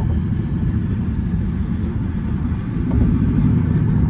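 2014 Jeep Grand Cherokee's 5.7-litre Hemi V8 running through a freshly fitted straight-pipe exhaust, a deep drone that gets louder about three seconds in.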